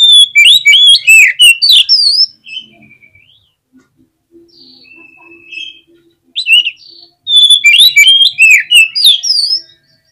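Oriental magpie-robin (kacer) in full song: a loud burst of rapid, varied whistles and chattering notes, then softer scattered calls, then a second loud burst about seven seconds in.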